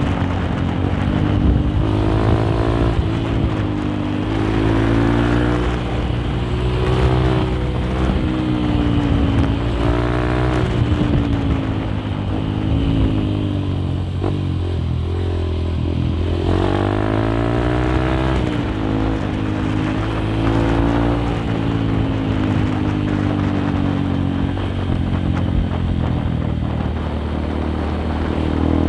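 Honda CRF150L's single-cylinder four-stroke engine running through a Nofifumi Torc aftermarket exhaust while riding. The revs climb and drop repeatedly as it pulls through the gears, ease off for a few seconds around the middle, then build again.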